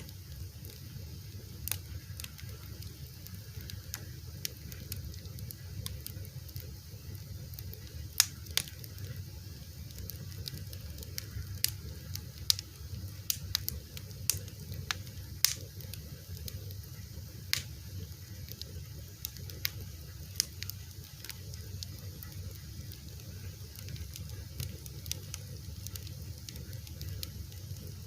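Wood fire crackling: scattered sharp pops and snaps over a steady low rumble, with the loudest pops about 8 and 15 seconds in.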